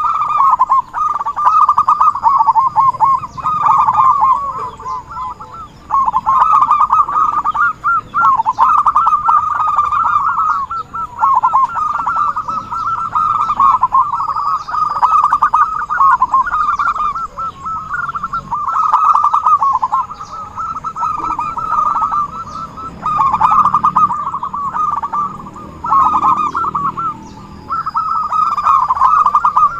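Zebra dove (perkutut) cooing: a rolling, trilled call repeated phrase after phrase, each lasting a second or two with short breaks between them.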